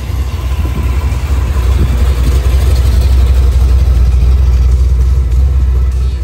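A car engine running close by, a loud, deep, steady rumble.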